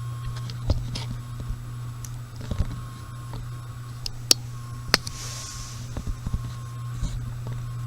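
Small metal pistol parts clicking and tapping as they are handled and fitted during reassembly of a Smith & Wesson M&P 45, with two sharp clicks near the middle. A washing machine running in the background adds a steady hum and whine.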